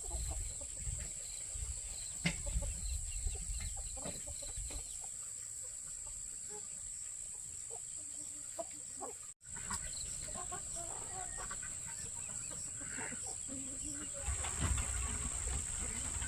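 Farmyard chickens clucking in short scattered calls, over a steady high-pitched insect buzz.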